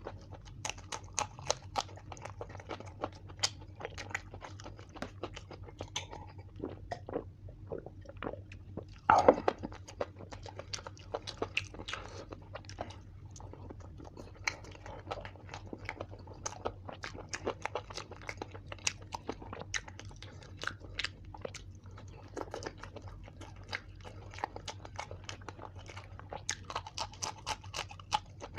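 Close-up chewing and crunching of food, many quick irregular mouth clicks and crunches, with one louder crunch about nine seconds in. A faint steady low hum runs underneath.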